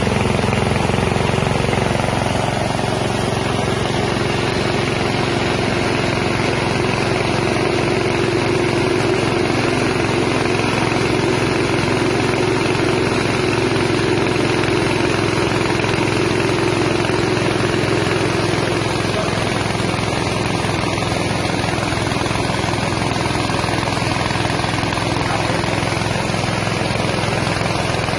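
Small engine-driven rice milling machine running steadily, the 6.5 hp engine and the mill's rotor and husking noise together at an even level.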